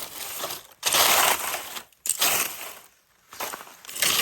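Dry leaf litter crunching and rustling as hands dig through it, in three short bursts with brief pauses between.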